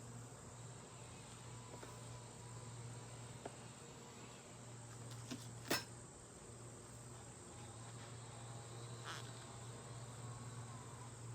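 Honeybees humming faintly and steadily around an open hive, with a thin wavering buzz now and then from a bee close by. A single sharp click sounds about six seconds in.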